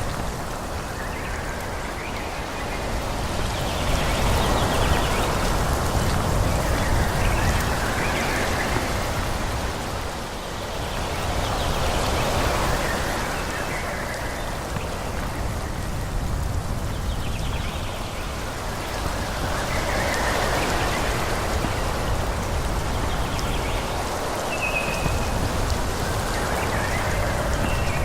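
Wind blowing through forest trees, a steady rustling hiss that swells and eases in gusts every several seconds, with a low rumble underneath and a few brief high chirps.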